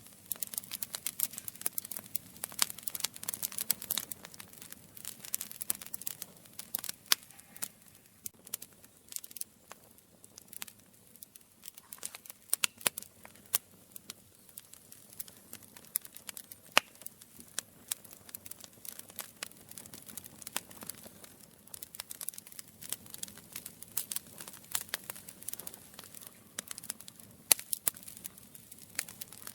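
Campfire crackling: a constant scatter of small, sharp pops and snaps at irregular intervals, with a louder snap about halfway through and a couple more near the end.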